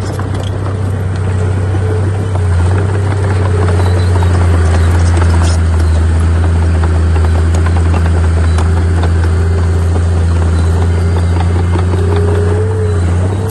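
Heavy diesel engine of earthmoving equipment running steadily under load: a deep drone that grows louder about two and a half seconds in and eases off near the end, with scattered crackle over it.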